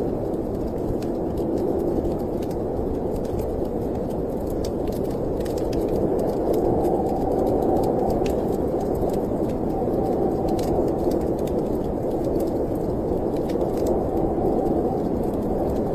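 Steady snowstorm wind blowing, a low rushing with a faint held whistle in it, under scattered small crackles and pops of a wood fire burning in a fireplace.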